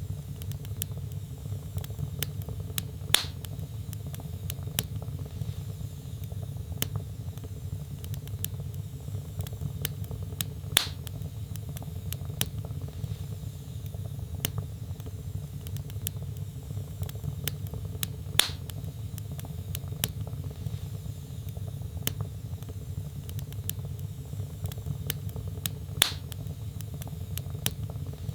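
Wood fire burning in a fireplace: a steady low rumble of flames under frequent small crackles of the burning logs, with four louder pops spaced about seven to eight seconds apart.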